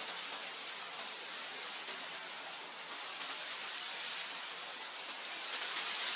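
Wind blowing steadily over grassland, a soft even hiss that swells and eases gently, a little stronger near the end.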